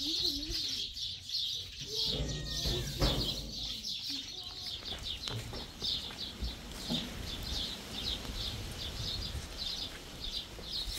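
Small birds chirping rapidly and steadily, several high-pitched chirps a second, over a low rumble, with a dull knock about three seconds in.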